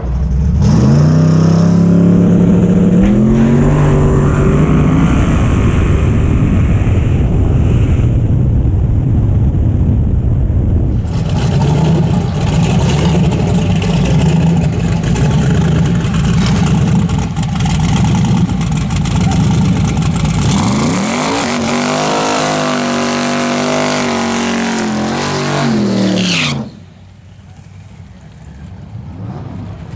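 Drag-race car engines at full throttle. In the first seconds the engine pitch climbs hard, followed by a long stretch of loud running. Past the middle a second engine note rises and falls, then the sound drops off sharply about three seconds before the end.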